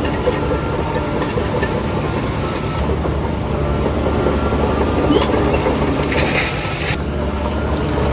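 Shantui DH17C3 crawler bulldozer's diesel engine running steadily with its steel tracks clattering. A short hiss comes about six seconds in and lasts under a second.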